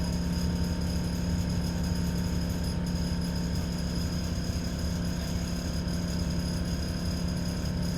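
ADL Enviro 400 double-decker bus's diesel engine running with a steady low drone, heard from inside the passenger cabin, with a faint steady high whine over it.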